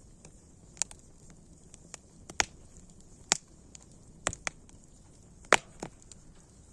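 Wood fire crackling: irregular sharp pops and snaps over a faint steady hiss, several loud pops about a second apart through the middle.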